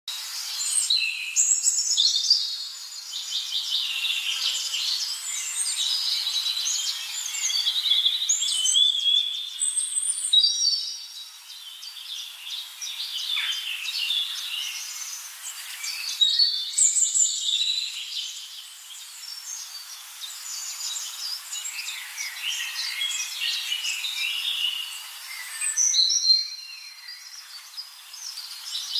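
Many birds chirping and singing together in a dense chorus of overlapping high chirps and trills, which changes abruptly a few times.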